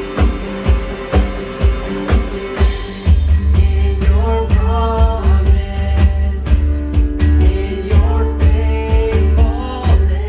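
Worship band playing a song: guitar over a steady kick-drum beat, then bass and the full band come in about three seconds in, with a voice singing the melody from about four seconds.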